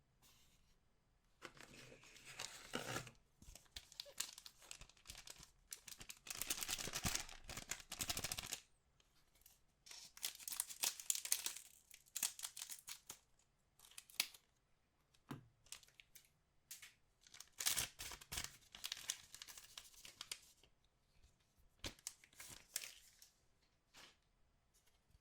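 Packaging being torn open and crinkled by hand in several bursts of a second or more, with small clicks and handling noises between them; most likely the wrappers of trading card packs.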